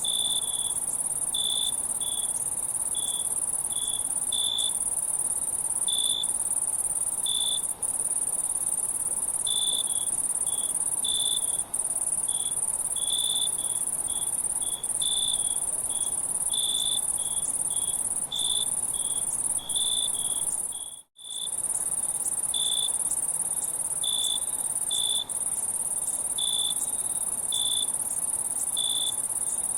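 Crickets chirping in short, irregular pulses over a continuous high-pitched insect drone, with the whole sound cutting out for a moment about two-thirds of the way through.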